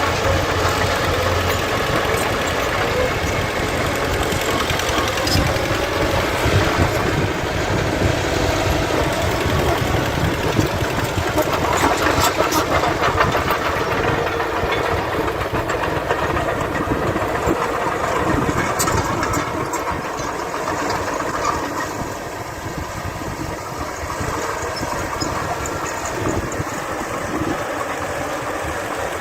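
Diesel engines of earthmoving machines at work, with a bulldozer and dump trucks running steadily and occasional brief clatters.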